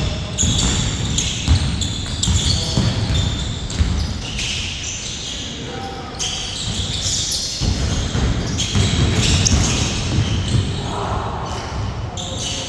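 A basketball game in play: a ball bouncing repeatedly on a hard court, with players' voices calling out throughout.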